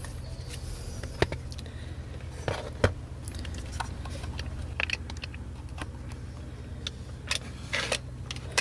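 Scattered sharp clicks and light rattles of a plastic headlight switch unit being handled and pushed back into place in a car dashboard, over a steady low hum.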